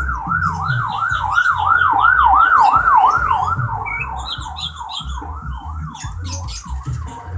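A yelping siren, its pitch sweeping up and down about three times a second, growing louder until about three seconds in and then fading. Small birds chirp over it.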